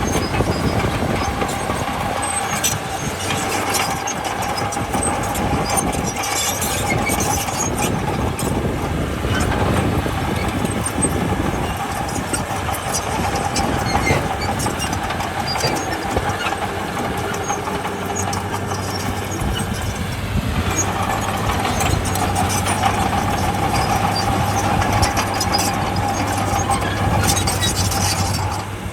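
Heavy diesel earthmoving machinery running steadily, with a constant whine over the engine and scattered clanks and clicks.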